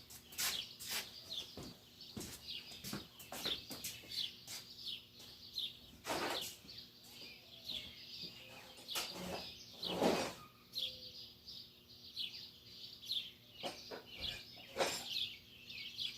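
Small birds chirping over and over, with a few scattered knocks and clunks, the loudest about ten seconds in.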